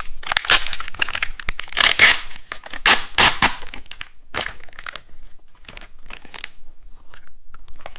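Plastic wrapper of a two-colour cheese stick being torn open and peeled, with crinkling; loudest in the first half, then softer scattered crinkles.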